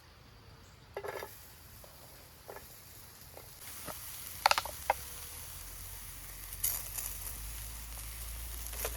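Campfire crackling and sizzling: scattered sharp pops over a hiss that grows louder a few seconds in.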